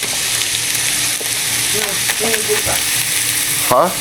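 Ground turkey frying in a pan with a steady sizzle.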